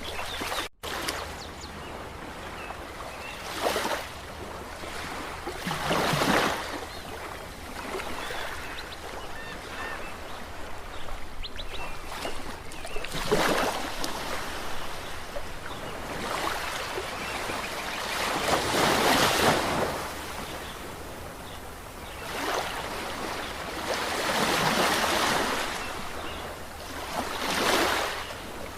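Ocean surf: waves breaking and washing in, the noise swelling about six times at irregular intervals of a few seconds. The sound cuts out completely for a moment about a second in.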